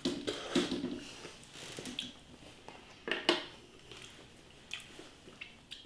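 A man chewing a mouthful of chicken and bacon pie with a thick puff-pastry lid: soft, wet mouth sounds with a handful of small smacks and clicks, the clearest a little past three seconds in.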